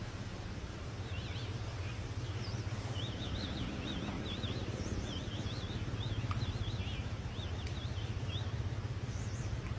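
A small bird singing a fast run of warbling chirps that flick up and down in pitch, over a steady low rumble of outdoor background noise.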